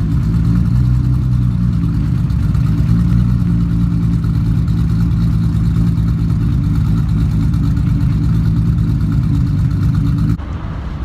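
A car engine running steadily at an even, low pitch; the sound cuts off suddenly near the end.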